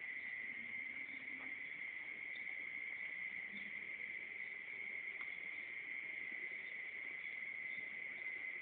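Steady high-pitched insect chorus, an unbroken drone like crickets, continuing without change.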